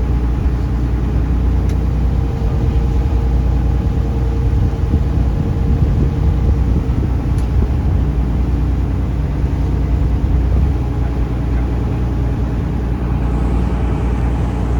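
Taxi boat's engine running steadily: a loud, even low rumble with a steady hum over it.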